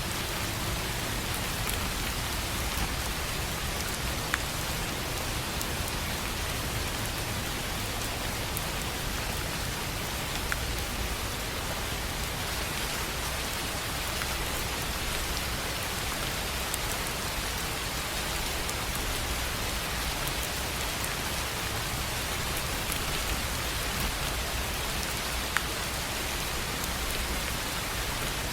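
Steady rain falling on a tin roof, a dense even patter with a few louder single drops ticking through it.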